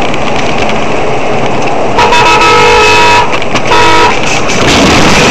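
Vehicle horn honking twice, a long blast of just over a second and then a short one, over loud, steady road and engine noise.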